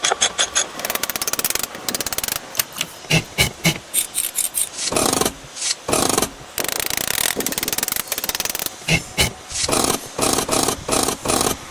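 Rough rubbing or rasping strokes of a hand tool working a surface, in quick runs of short strokes broken by a few longer strokes.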